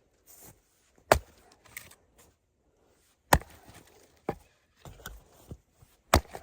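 Gransfors Bruk splitting maul striking firewood rounds: four sharp blows a second or two apart, with smaller knocks between.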